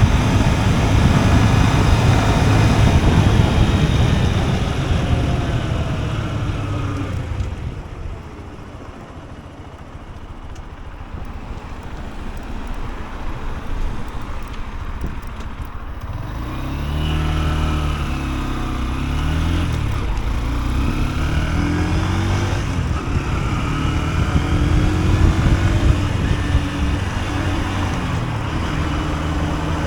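Honda CB125F's single-cylinder four-stroke engine on the move. A loud rushing noise at speed fades to a quieter stretch, then about halfway through the engine pulls away, its pitch climbing and dropping several times as it shifts up through the gears.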